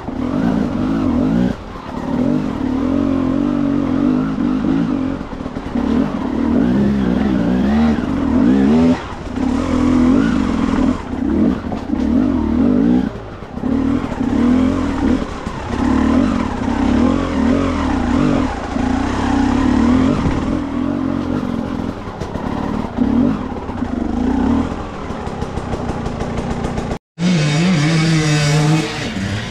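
Enduro dirt bike engine heard on board as it climbs a rocky stream bed, the throttle opening and closing so the note rises and falls every second or two with short drops. Near the end the sound cuts out for a moment, then an engine runs on at a steadier, higher note.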